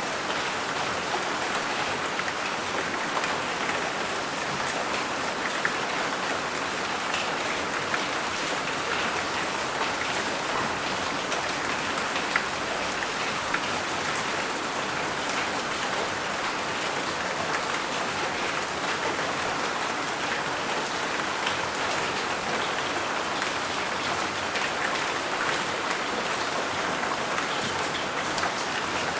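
Steady rain falling, with small sharp ticks of single drops scattered through it; no thunder.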